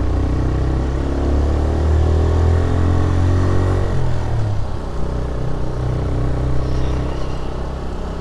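TVS Raider 125's single-cylinder engine running under way, its pitch climbing over the first few seconds and then dropping about four seconds in, over a steady low rumble.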